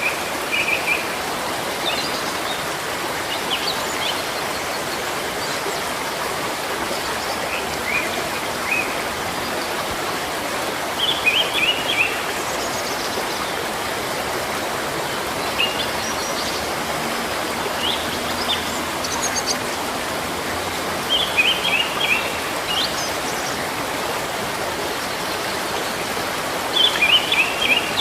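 Steady rush of flowing water, with a small bird chirping short bursts of quick notes every few seconds.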